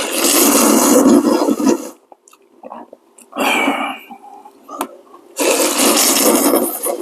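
A person slurping ramen noodles loudly, three times: a long slurp, a short one, then another long one.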